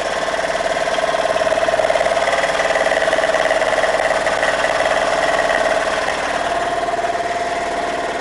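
Boat engine running steadily, with a constant droning note that swells slightly in the middle and eases back near the end.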